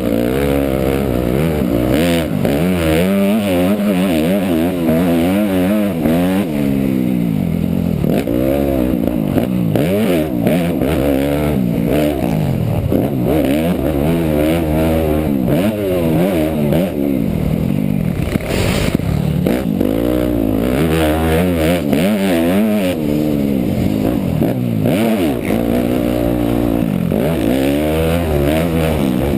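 Motocross bike engine revving hard and repeatedly, its pitch climbing and dropping every second or two as the throttle is opened and shut. A sharp knock stands out about two-thirds of the way through.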